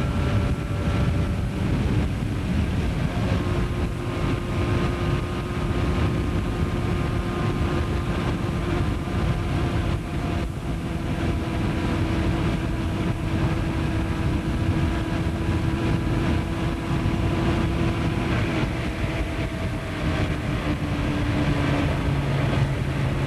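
Motorcycle engine running steadily while riding, with wind rushing over the microphone. The engine note drops a little near the end.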